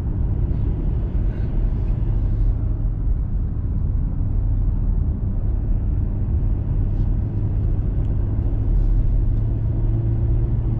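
Diesel pickup truck driving on a paved road, its engine and tyre noise heard from inside the cab as a steady low rumble.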